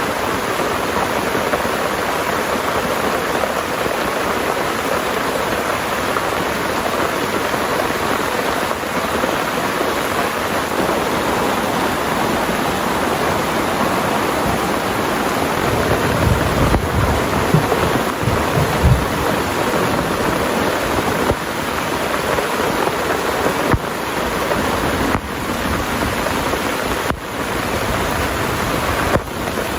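Heavy rain falling steadily, with a low roll of thunder rumbling about halfway through.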